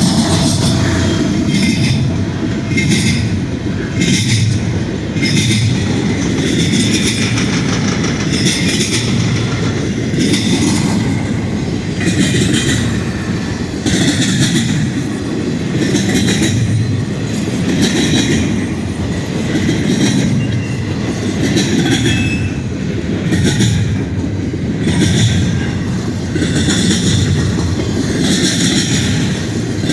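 CN intermodal freight train rolling past close by: a steady rumble of steel wheels on rail, with a clickety-clack about once a second or so as the cars' wheels cross the rail joints.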